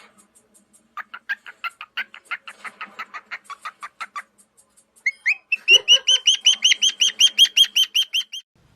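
A parrot calling in two quick runs of short, evenly repeated chirps, several a second. The second run starts about five seconds in and is louder and higher.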